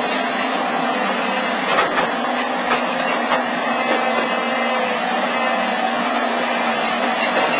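Steady machinery noise with a low hum running throughout and a few sharp clicks or knocks about two and three seconds in.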